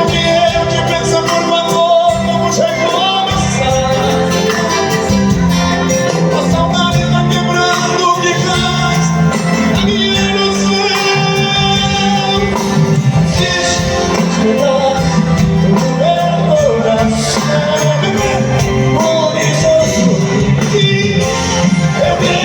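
Live band playing Brazilian country-style music, with a voice singing over it.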